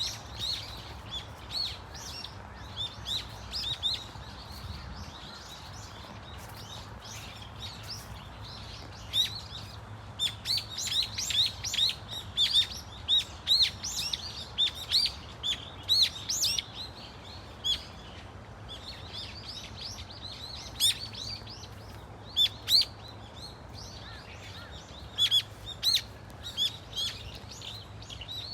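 A flock of brown-eared bulbuls calling: many short, sharp, high calls in busy bursts, thinning out now and then and busiest in the middle and near the end, over a faint steady low hum.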